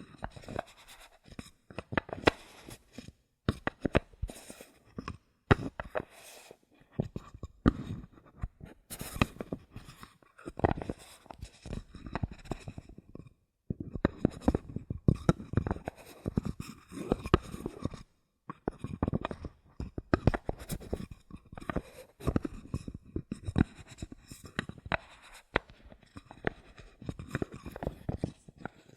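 Bottle caps handled close to a microphone: quick runs of taps, clicks and scratching in short clusters, broken by brief pauses.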